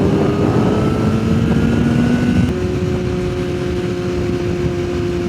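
Yamaha sportbike engine pulling under acceleration, its pitch rising, then dropping at an upshift about two and a half seconds in and holding steady.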